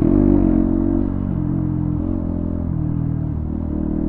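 Motorcycle engine running at a fairly steady pitch, dipping slightly in the middle; it comes in suddenly at the start.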